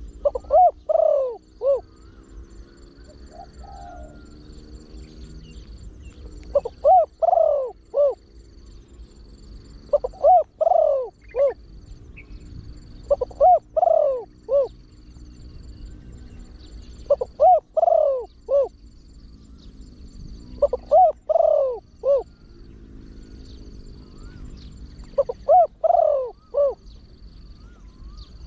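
A trained spotted dove cooing in its deep-voiced song: a short phrase of three or four coos repeated about seven times, one phrase every three to four seconds.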